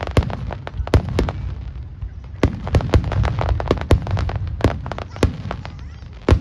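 Aerial firework shells bursting in quick, irregular succession: sharp bangs several times a second over a continuous low rumble of echoing explosions, thinning briefly about two seconds in before picking up again.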